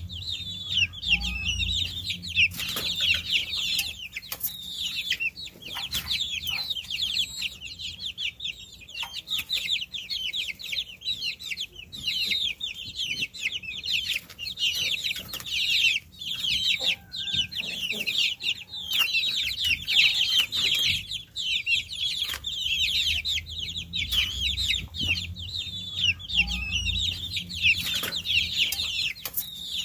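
A brood of baby chicks peeping nonstop, many overlapping high-pitched chirps that each slide downward in pitch. There are occasional faint clicks, and a low hum comes and goes underneath.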